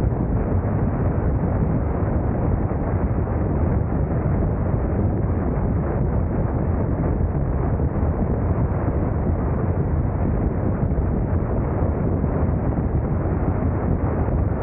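Steady wind rush over the microphone of a camera riding on a moving motorcycle, with road and engine noise underneath.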